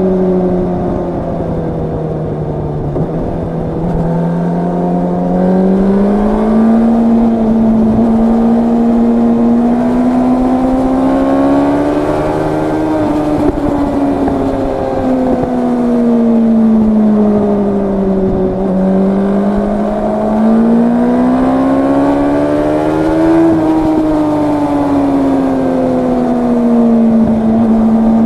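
Yamaha R1 crossplane inline-four engine and exhaust under way, heard from the rider's position. Its pitch climbs and falls gradually several times as the throttle is rolled on and eased off.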